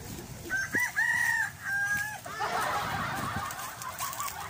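Rooster crowing once, a cock-a-doodle-doo lasting about a second and a half and starting under a second in. A busy run of short, wavering chirping calls follows.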